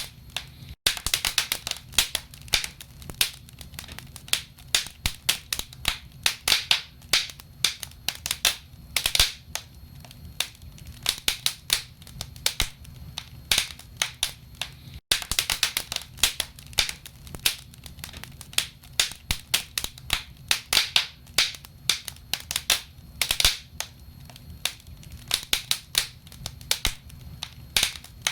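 Wood fire in a fireplace crackling, with irregular sharp pops and snaps of burning logs, several a second, over a low steady rumble. The sound drops out for an instant about a second in and again about halfway through.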